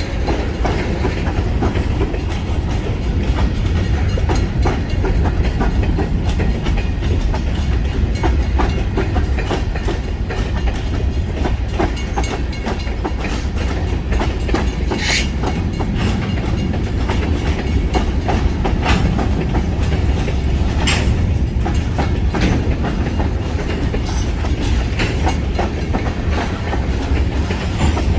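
Freight train's cars rolling past on the rails: a steady low rumble with continual clickety-clack of wheels over rail joints, and a couple of sharper knocks about halfway and two-thirds through.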